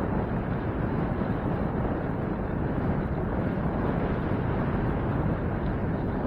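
Steady wind rumble on the microphone of a camera riding along on a bicycle.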